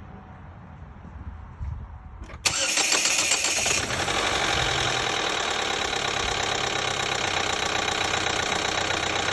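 The 2012 Chevy Equinox's 2.4L four-cylinder engine catches about two and a half seconds in, flares briefly high, then settles into a steady idle. It runs with a bad knock from the top of the engine, which Marvel Mystery Oil in fresh oil has not cured.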